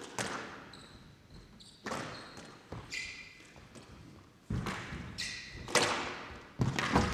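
Squash rally: the ball is struck by rackets and hits the court walls in a series of sharp knocks about a second apart, with the players' shoes squeaking briefly on the court floor between shots.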